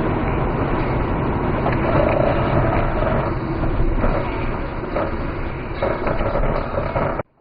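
Steady rumble of vehicle and road noise. It cuts off suddenly near the end.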